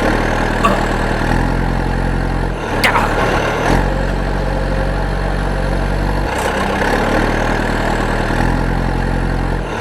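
Tractor engine idling steadily, its pitch shifting in steps a few times, with a sharp click about three seconds in.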